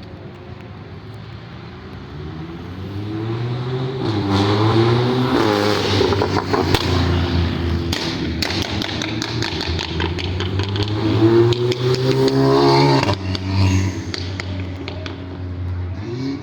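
A car engine revving up as the car pulls away, climbing in pitch about four seconds in and again near twelve seconds before the revs drop off. Several sharp knocks come in the middle.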